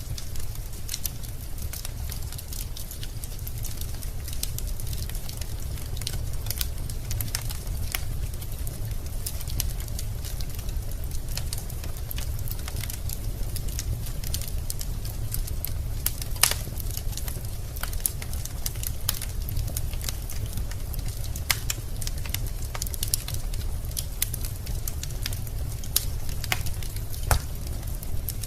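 Wood fire burning in a fireplace: a steady low rumble of the flames with irregular sharp crackles and pops of the burning logs, a few louder pops scattered through.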